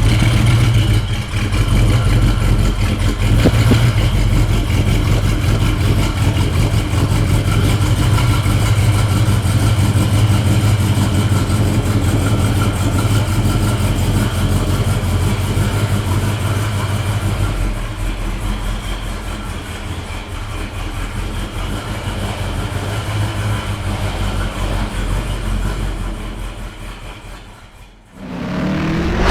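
Ford Mustang's 302 V8 with headers and a four-barrel carburetor running steadily. It gets a little quieter about two-thirds of the way through and fades out near the end.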